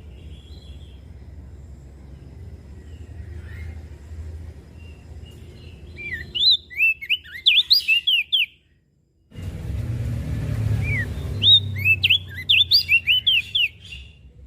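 Crested white-eye (opior jambul) singing: two fast phrases of sharp, high whistled notes, each two to three seconds long, over a steady low rumble. The audio drops out completely for a moment between the phrases.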